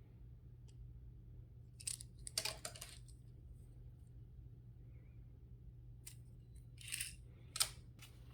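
Hands handling toy-car packaging: a few short crinkling scrapes and clicks about two seconds in and again near the end, over a low steady hum.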